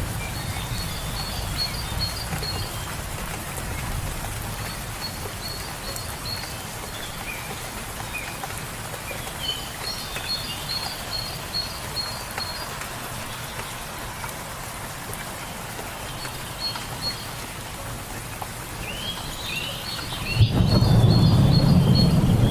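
Steady rain with birds singing: phrases of a fast trill of short high notes every few seconds, with scattered chirps between. Near the end a low rumble comes in and the whole sound gets louder.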